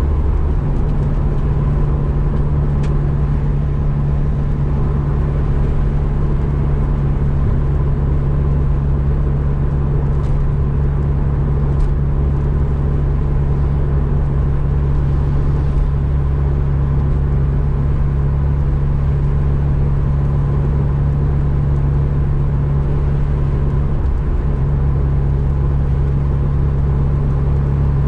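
Mazda RX-7 FC's 13B turbo rotary engine and exhaust heard from inside the cabin while cruising: a steady low drone at an unchanging pitch.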